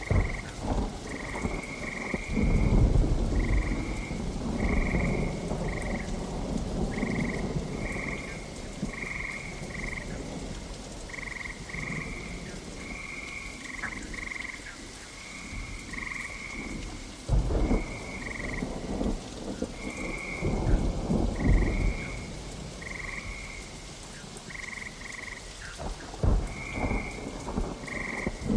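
Steady rain with thunder rumbling, swelling loudest a few seconds in and again about two-thirds of the way through. A short, pitched animal call repeats about once a second throughout.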